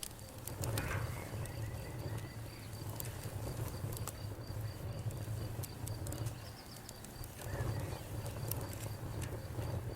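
Campfire crackling, with frequent sharp pops and snaps over a low steady rumble. An insect chirps steadily in quick, even pulses.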